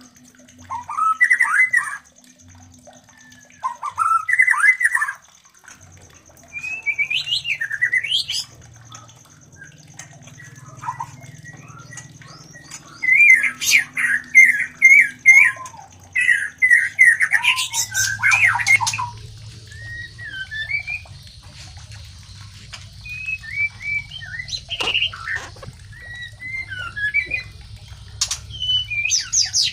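White-rumped shamas calling while mating. Short repeated phrases come about every two seconds at first, then varied chattering calls and harsh squawks.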